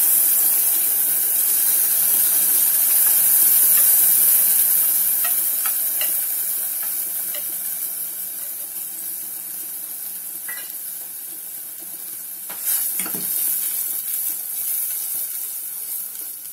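Ground masala paste sizzling in hot oil in a stainless-steel pressure cooker, with a spatula scraping and stirring. The sizzle is loudest at first and dies down gradually, with small scrapes and clicks and a louder knock about thirteen seconds in.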